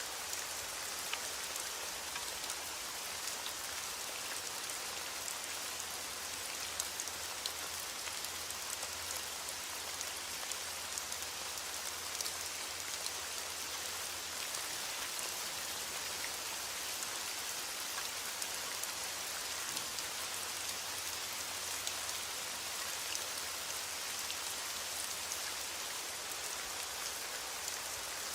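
Steady rain falling, a constant hiss with many small drop ticks on a hard surface throughout.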